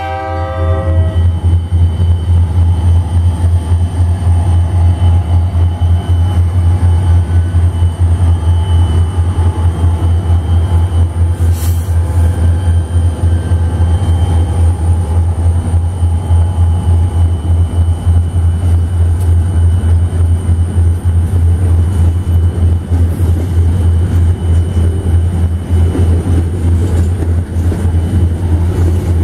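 A diesel freight train's horn chord cuts off about a second in. Then the train passes close by through a grade crossing, the locomotives followed by a long string of boxcars rolling past with a loud, steady, heavy rumble.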